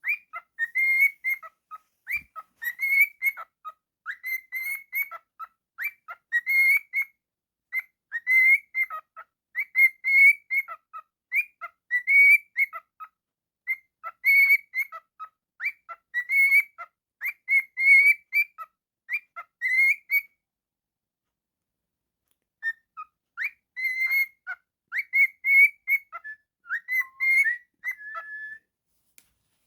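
Cockatiel whistling and chirping in quick, repeated short phrases, breaking off for about two seconds about two-thirds of the way through.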